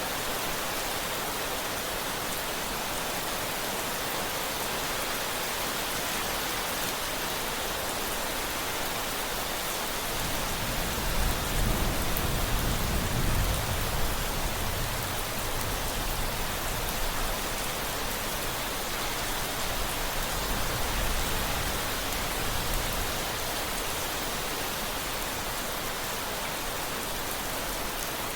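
Steady rain hissing throughout. A low rumble of thunder builds about a third of the way in, is loudest near the middle, and fades away over the next ten seconds.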